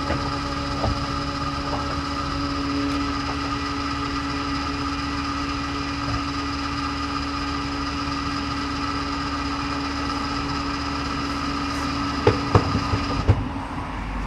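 Kawasaki Z H2 SE's supercharged inline-four engine, flash tuned and breathing through a full exhaust, idling at a steady pitch. Near the end come four sharp clicks, and then the engine note stops abruptly.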